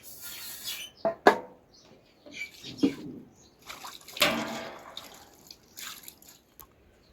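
Water splashing and pouring in short bursts, with two sharp knocks about a second in. The loudest splash comes a little past the middle.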